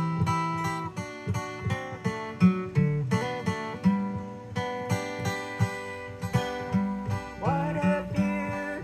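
Acoustic guitar picking and strumming the instrumental introduction of an old-time gospel song. A voice comes in singing about seven and a half seconds in.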